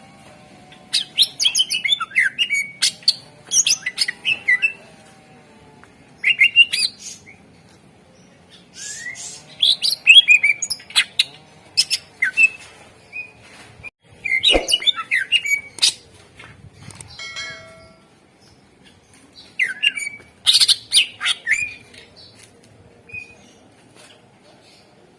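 Cucak ijo (green leafbird) singing in loud bursts of rapid, sharp, sweeping chirps and whistles, about five song phrases separated by short pauses.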